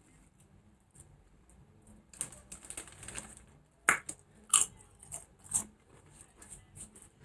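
Potato chips being bitten and chewed: a run of crackly crunching a couple of seconds in, then a few sharp, loud crunches.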